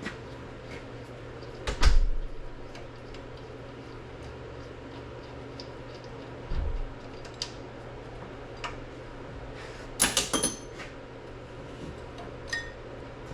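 Workshop handling noises over a steady low hum: a heavy thump about two seconds in, a dull thump later, then a quick run of sharp, ringing metal clanks about ten seconds in, as of tools or engine parts knocked together.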